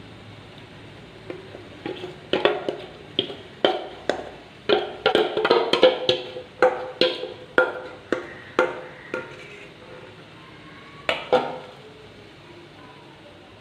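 A spoon knocking and scraping against a metal bowl while thick batter is poured out into a cake tin: a run of sharp, ringing taps, irregularly spaced and densest in the middle, then two more near the end.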